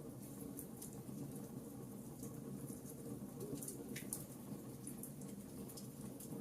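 Wood fire crackling: irregular sharp snaps and pops over a steady low rumble of the burning logs, with one louder pop about four seconds in.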